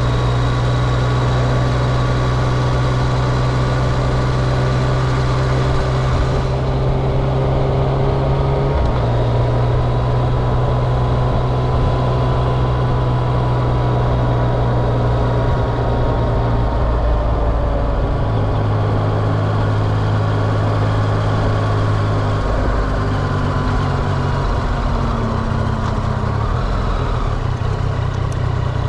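Vehicle engines idling in a loud, steady low drone whose pitch shifts slightly a few times.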